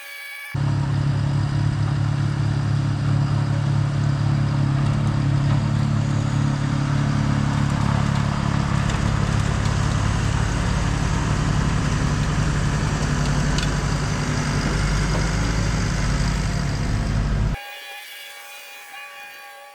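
Tractor diesel engine running steadily under load while a PTO-driven snowblower throws heavy wet snow. The sound cuts in abruptly about half a second in and cuts off near the end.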